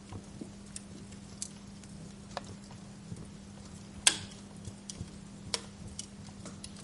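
Wood fire crackling in a fireplace: scattered sharp pops and crackles over a soft hiss, with one louder pop about four seconds in. A low steady hum runs underneath.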